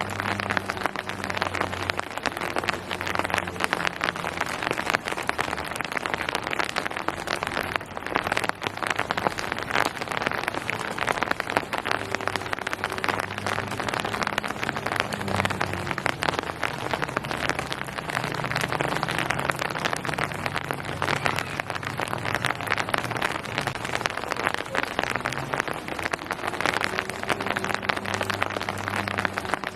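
Steady rain falling on hard surfaces, a dense patter of drops, with a faint low hum underneath.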